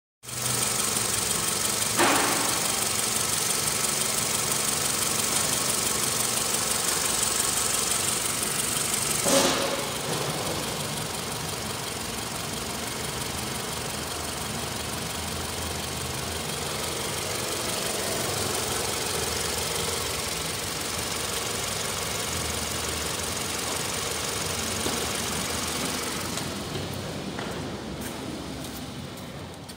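Toyota Camry 2.4-litre four-cylinder engine (2AZ-FE) idling steadily. There are two short knocks, about two seconds in and again about nine seconds in. The engine grows quieter near the end.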